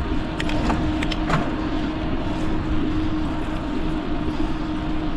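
A car running close by with a steady hum, over a low rumble of wind on the microphone; a few sharp clicks in the first second and a half.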